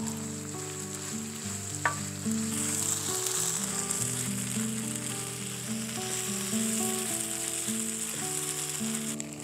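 Stir-fried sundae and vegetables sizzling in a griddle pan over an open wood fire, stirred with a wooden spatula. Soft background music with held notes plays underneath.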